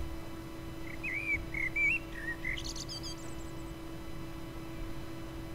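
A bird chirping in short, warbling whistled notes from about a second in, ending in a quick, higher flurry of notes near the three-second mark. A faint steady hum lies beneath.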